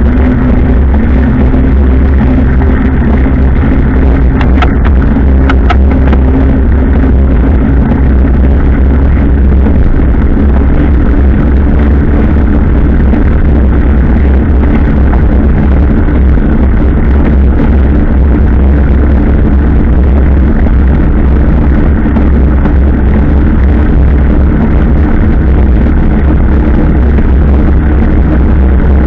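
Motorcycle engine running steadily at cruising speed, a constant drone with heavy wind rumble on the microphone.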